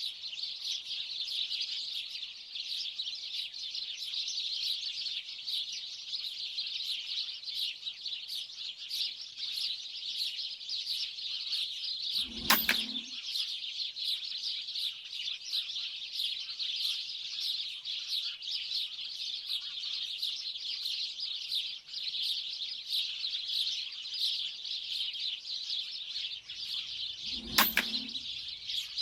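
A large flock of small birds chirping continuously, with two sharp shots from a 4.5 mm air rifle firing slugs: one about halfway through, the other near the end.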